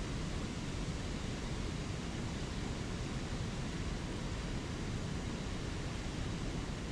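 Steady rushing of a spring creek's flowing water and small waterfalls, an even rush with no change.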